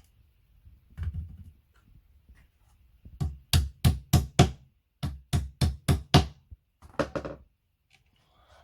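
Sharp knocks on flat-pack furniture parts during assembly, as from tapping them together: two quick runs of about five strikes each, about three a second, starting about three seconds in, then a few lighter knocks.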